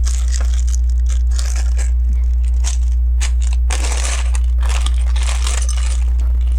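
Plastic LEGO pieces clicking and a plastic parts bag crinkling as someone rummages through loose bricks, over a steady low hum.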